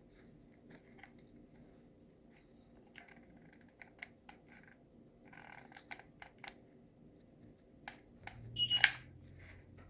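Faint scattered clicks and a brief rustle of craft material being handled, tucked and folded while hot-gluing, with a louder cluster of clicks near the end.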